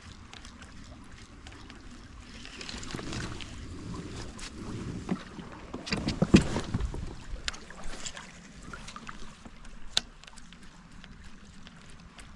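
Water splashing and sloshing around a fishing kayak, building from about two seconds in and loudest about six seconds in, with scattered light clicks and knocks.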